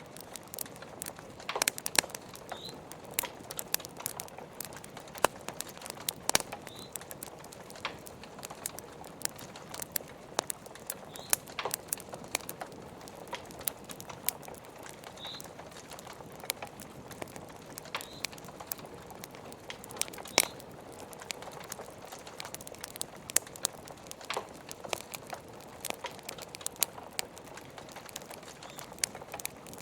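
Wood fire crackling and popping in sharp, irregular snaps over a steady hiss of rain. A few brief high chirps are heard now and then.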